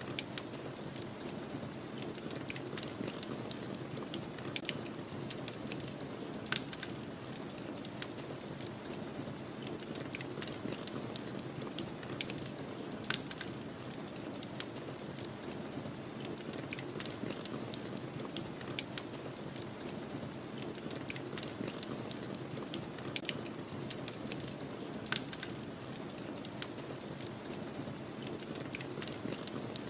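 Wood fire crackling, with irregular sharp pops and snaps, over a steady low rush of snowstorm wind.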